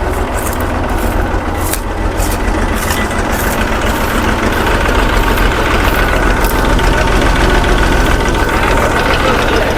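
Fiat 480 tractor's three-cylinder diesel engine idling steadily, with light ticking in the first few seconds and getting a little louder about halfway through.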